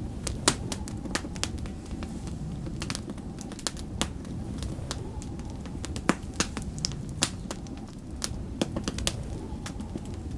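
Wood fire crackling, with irregular sharp pops several times a second over a steady low rumble of snowstorm wind.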